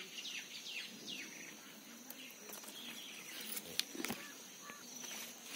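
A bird calling in a quick series of short falling chirps for the first couple of seconds, over a faint steady high-pitched whine. Two sharp clicks about four seconds in, as leaves brush the phone.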